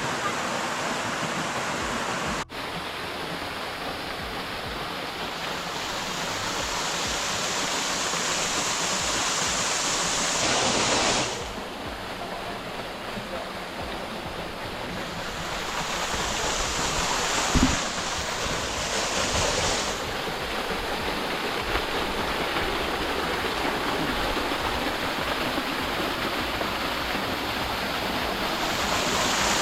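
Steady rush of a waterfall's falling water. It shifts abruptly in level and tone a few times, and there is one brief knock about halfway through.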